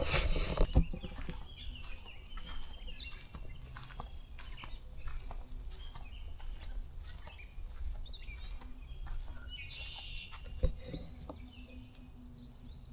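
Wild birds chirping and calling in short scattered notes over a low outdoor rumble. Sharp thumps sound at the start, about a second in, and again near the end.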